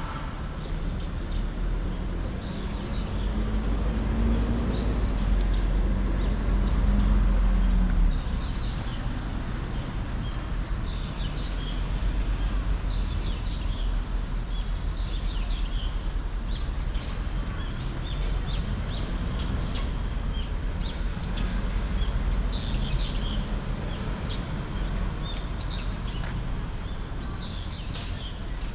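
A small bird chirping over and over, short hooked calls every second or two, over the low rumble of city traffic. A vehicle engine passes close, loudest from about four to eight seconds in.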